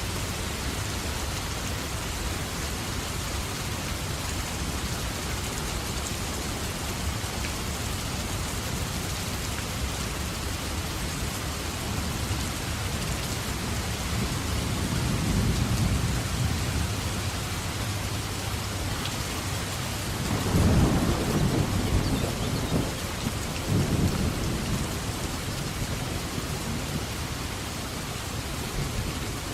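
Steady heavy rain with thunder: a low rumble rolls in about halfway through, and a louder, cracking peal follows a few seconds later before fading back under the rain.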